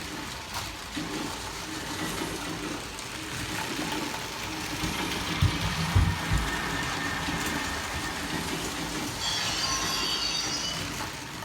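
A Lego toy train running along its plastic track with a steady rattling run. There are a few low knocks midway and a brief high squeal near the end.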